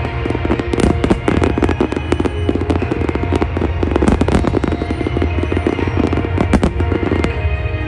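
Fireworks display: a dense, rapid barrage of aerial shell bursts and crackle, many overlapping, which thins out about seven seconds in. Show music plays underneath.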